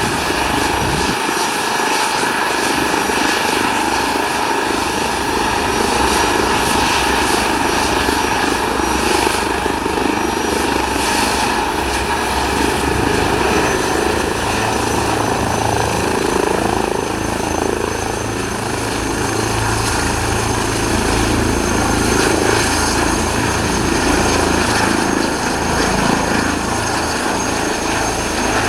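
Airbus H160 helicopter running close by: a steady, loud mix of turbine whine and rotor rush, with a thin high tone over a dense noise that holds level throughout.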